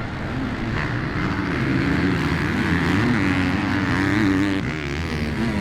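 Several motocross bike engines revving during a race, their pitches rising and falling and overlapping as the riders work the throttle.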